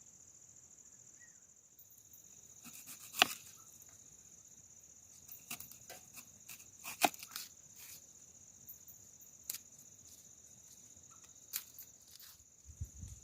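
Steady high-pitched insect chorus, crickets, with a scattered series of sharp clicks and knocks over it, the loudest about three and seven seconds in.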